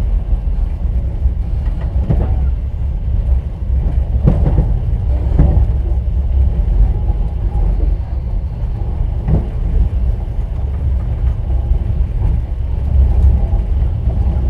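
Passenger train running, heard from inside the carriage: a steady low rumble of the wheels on the rails, with a few sharper knocks of wheel clatter a second or several apart.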